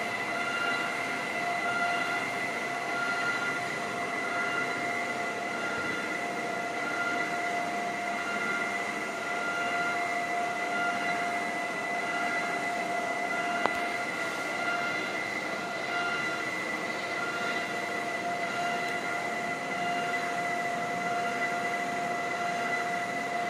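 Fitkit treadmill running with a steady high-pitched whine over a noisy mechanical hum, the loud running noise the owner complains of. One brief click about two-thirds of the way through.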